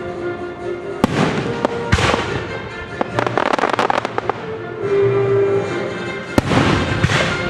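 Aerial fireworks bursting: sharp bangs about one and two seconds in and again near the end, with a rapid crackle in the middle, over orchestral music.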